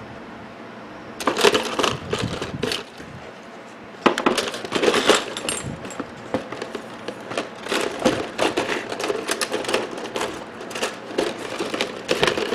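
Scrap copper pieces, salvaged from microwave magnetrons and turntable motors, dropped into a container, clinking and clattering in repeated handfuls.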